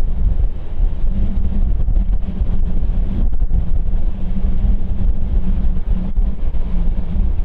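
Deep, steady low rumble of a jet airliner's engines, with wind buffeting the microphone.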